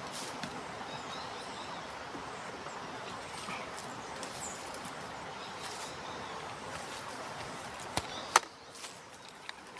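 Steady outdoor background noise by a river, with faint bird chirps, ending with two sharp clicks about eight seconds in, after which the noise drops away.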